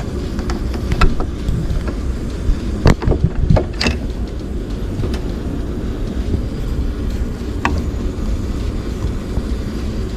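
A moving vehicle's steady low road and engine rumble, with a few short knocks and rattles, a cluster of them about three to four seconds in.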